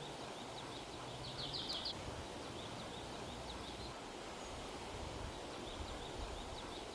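Quiet forest ambience with birdsong: a steady background hush, scattered faint high chirps, and one short rapid trill of about six notes about a second and a half in.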